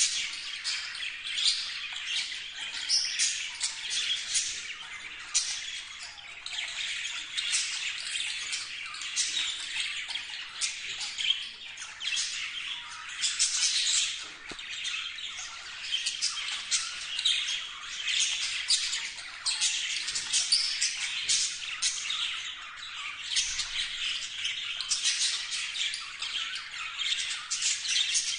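Budgerigar chattering: a steady, rapid run of short, high chirps and clicks that goes on without a break.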